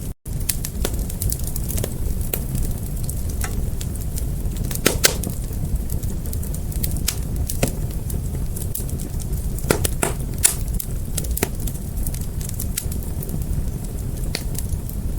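Wood fire crackling: a steady low rumble with frequent sharp pops and snaps at irregular intervals. There is a brief cut to silence just after the start.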